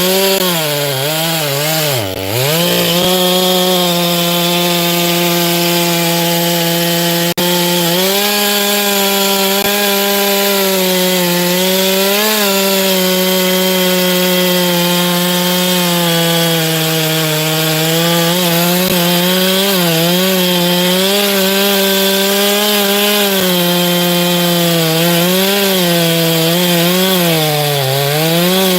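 Chainsaw running at high revs while cutting wood, its pitch sagging and recovering as the chain loads up, with a brief drop in revs about two seconds in and an uneven wavering of pitch near the end.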